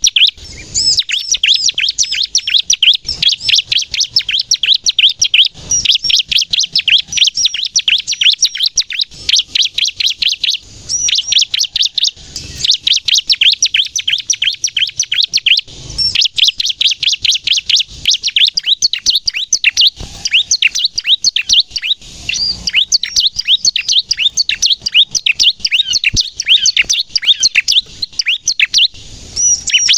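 Bar-winged prinia (ciblek) singing nonstop in long strings of rapid, high-pitched chirps, broken by short pauses every few seconds, with a few faint knocks.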